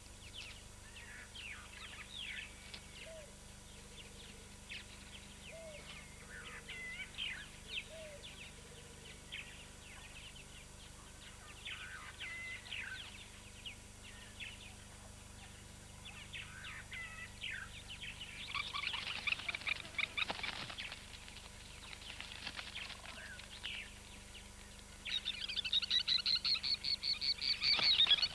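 Spur-winged plover calling: scattered short, sharp high notes, breaking into bursts of fast repeated calls about two-thirds through and again, louder, over the last few seconds.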